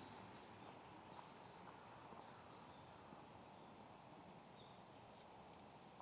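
Near silence: quiet outdoor ambience with a few faint, short, high-pitched bird chirps scattered through and an occasional faint tick.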